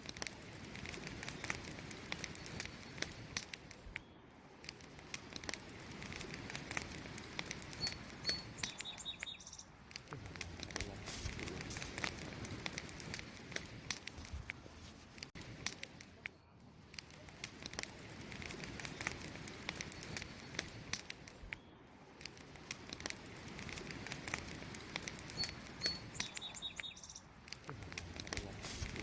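Wood fire crackling and popping, its loudness swelling and dipping every few seconds. A short high bird chirp comes twice, about eight seconds in and near the end.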